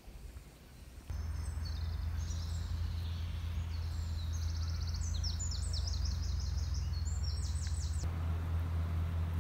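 A small bird singing rapid trilled phrases of quick repeated notes over a steady low rumble, both starting suddenly about a second in.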